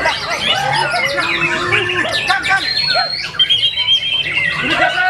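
White-rumped shama (murai batu) singing a long, varied song of whistles and chattering phrases, with a rapid trill of repeated notes about two-thirds of the way through.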